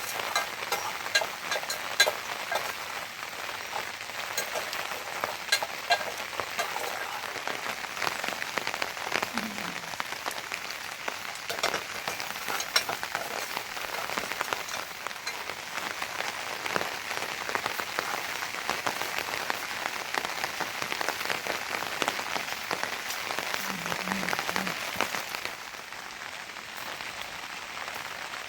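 Steady rain falling, with many individual drops ticking sharply on a surface; it eases slightly near the end.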